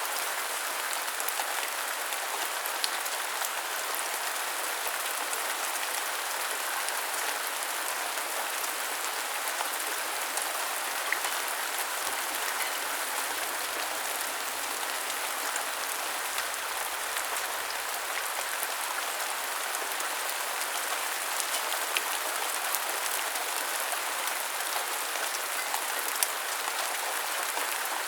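Steady rain falling: an even hiss, with scattered sharper ticks of single drops.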